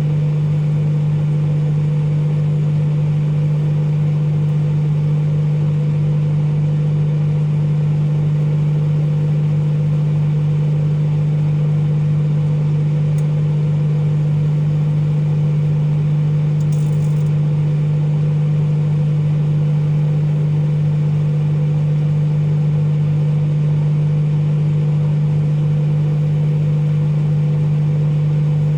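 Microwave oven running with a loud, steady low hum.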